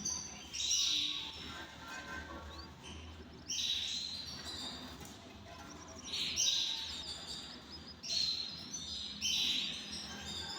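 Canaries singing: four loud bursts of high, rapid trilled song about three seconds apart, with softer chirps between them.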